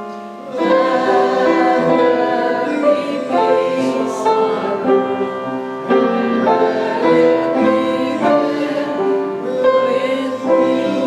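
A song sung by several voices with piano accompaniment, a sustained, melodic passage of held notes.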